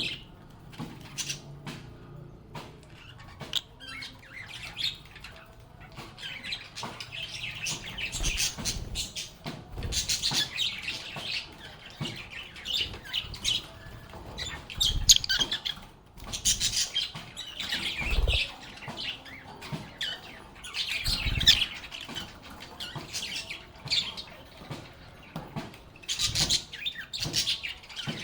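Lovebirds chirping and chattering in quick, high-pitched calls, one after another, with a few dull low thumps among them.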